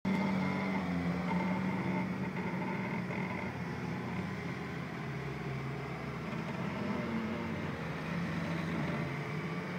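Suzuki SJ-series 4x4's engine running steadily at low speed as the vehicle crawls nose-down into a steep sand trench.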